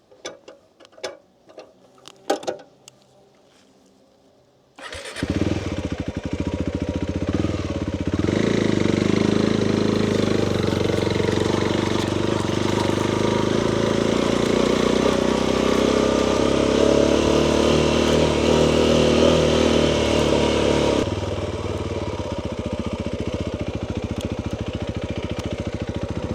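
A few faint clicks and knocks, then about five seconds in a motorcycle engine starts and runs. About eight seconds in it runs louder at higher revs, settling back to a lower, steady level about twenty seconds later.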